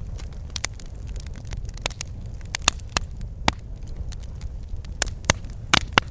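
Fireplace fire crackling: a steady low rumble of burning with irregular sharp pops and snaps, several of them louder towards the end.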